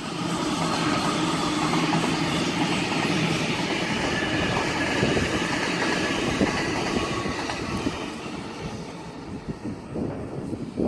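Waratah electric multiple-unit train passing close by at speed: a steady rumble with a humming tone and wheels clicking over rail joints, fading away near the end.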